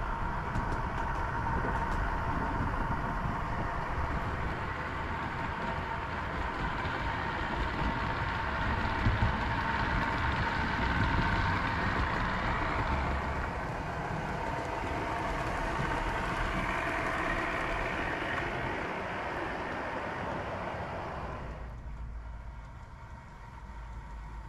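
A train running: a steady low rumble under a hiss with a held whining tone. About three seconds before the end the hiss and tone drop away, leaving only the low rumble.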